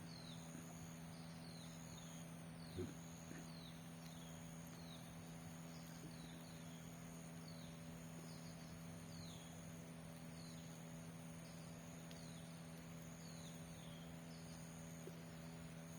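Faint outdoor ambience: insects trilling steadily at a high pitch, with a bird giving short falling chirps over and over, about one a second. A low steady hum runs underneath, and there is a single light knock about three seconds in.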